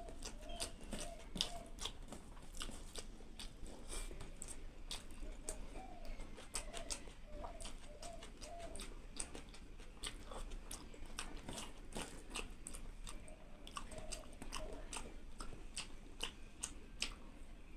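Close-up chewing and wet mouth clicks of a person eating rice and curry by hand, with many small irregular smacks and clicks.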